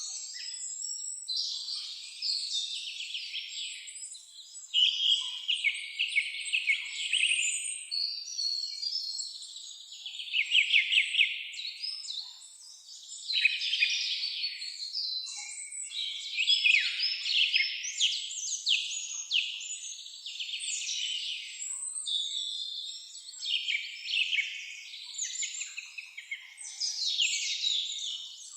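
Several songbirds singing in overlapping phrases, fast trills and chirps one after another with brief gaps.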